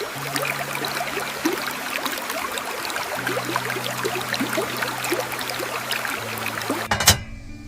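Rain falling in a dense patter of drops, cut off abruptly by a sharp click about seven seconds in.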